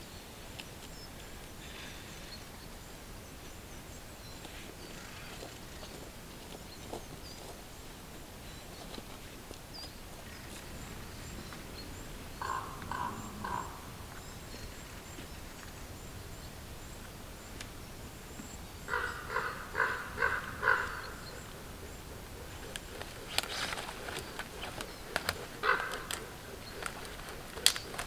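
Quiet mountain spruce-forest ambience, with a bird calling in two short series of rapid repeated notes, the first about halfway in and a longer one about two-thirds in. Near the end come scattered sharp snaps and clicks of twigs underfoot.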